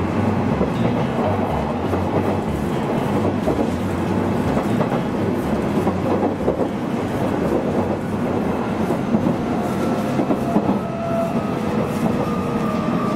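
Running noise heard from inside a Nishitetsu train car at speed: a steady rumble of wheels on the rails, with a faint whine coming in near the end.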